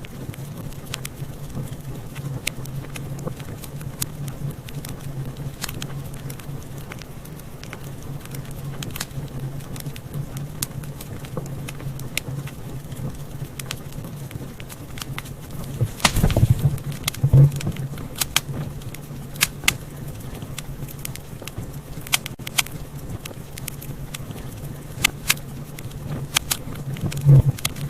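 Wood fire crackling in a fireplace, a steady low rumble of flames under frequent sharp pops and snaps, with a run of louder pops about halfway through and again near the end.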